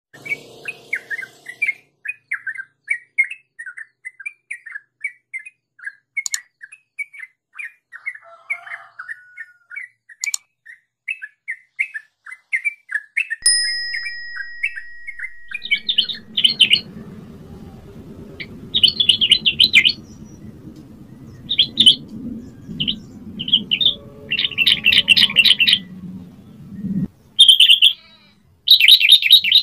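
Yellow-vented bulbul singing: a fast run of short chirping notes for the first half, then louder bursts of bubbly song phrases. A low steady hum runs underneath for much of the second half.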